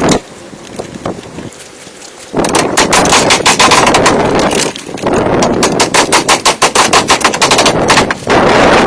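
Loud, fast rattle of rapid repeated strikes, several a second, from a woodworking tool working hardwood. It starts after a short lull about two seconds in and dips briefly twice.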